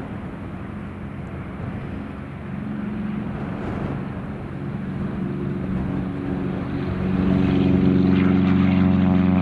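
Light propeller aircraft's piston engine running with a steady hum. About seven seconds in it grows louder and fuller, as power comes up for takeoff.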